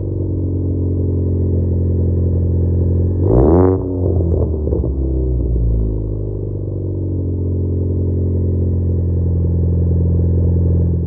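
Ford Focus ST's turbocharged four-cylinder running through an AWE Track catback exhaust with a deep, steady grumble, with one brief rev that rises and falls about three seconds in.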